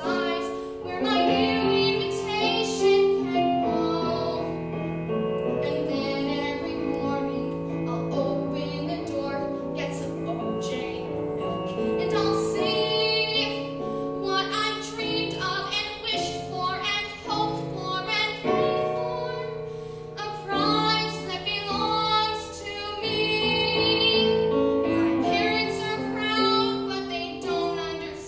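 A young girl singing a musical-theatre song live, over instrumental accompaniment with a steady backing line.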